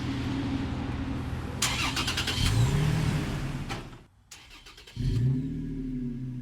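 Toyota Tacoma's 3.5-litre V6 running through its exhaust at idle, blipped up in a short rev about halfway through. After a brief sudden break it comes back with another quick rev near the end.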